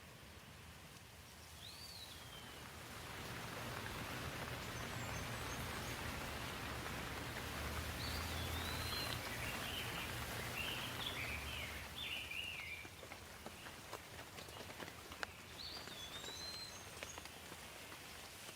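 Steady rain falling, swelling for several seconds and then easing, with a low rumble underneath while it is heaviest. Songbirds chirp over the rain in short rising and falling calls, once near the start, in a quick run in the middle, and once more near the end.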